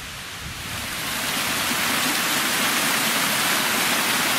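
Steady rush of a river flowing over cascades. It grows louder over the first two seconds, then holds steady.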